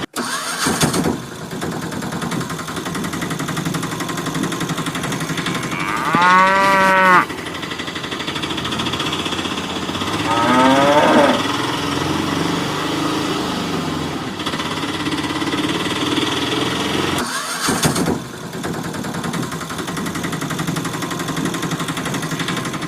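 A cow mooing once, a loud drawn-out call about six seconds in, then a second, shorter animal call about ten seconds in, over a steady mechanical hum.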